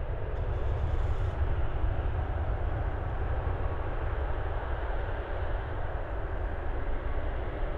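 Airbus A340-300 airliner's four turbofan engines on its landing approach: a steady jet rumble.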